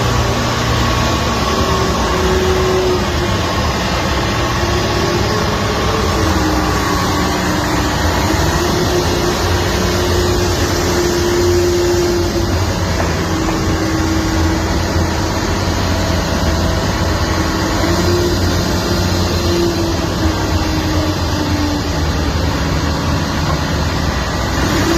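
Heavy diesel machinery running steadily with a low rumble and a whine that drifts slowly up and down in pitch.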